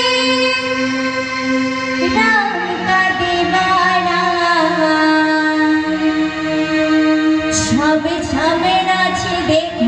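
Girls singing a Hindu devotional song over sustained instrumental accompaniment, with a few sharp percussive strikes near the end.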